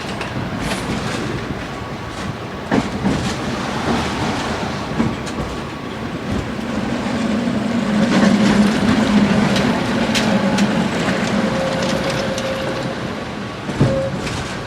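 Tram running along its rails, with a continuous rumble and sharp knocks from the wheels, one a few seconds in and one near the end. A low hum swells in the middle and fades again.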